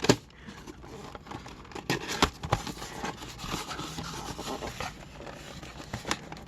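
Cardboard and plastic packaging of an action-figure window box being handled and opened: scattered light taps, clicks and scrapes, with a few sharper knocks about two seconds in.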